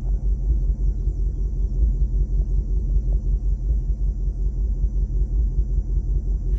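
Vehicle engine idling: a steady low rumble that pulses evenly.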